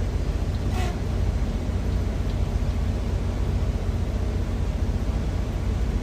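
Steady low rumble with an even hiss over it, typical of a truck's idling engine heard inside the cab, with one brief click just under a second in.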